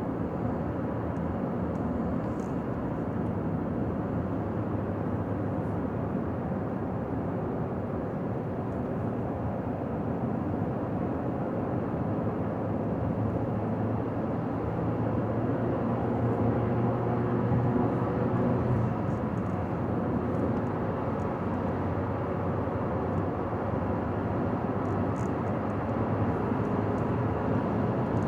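Car driving at highway speed: steady tyre and engine noise, with a low hum that swells slightly for a few seconds mid-way.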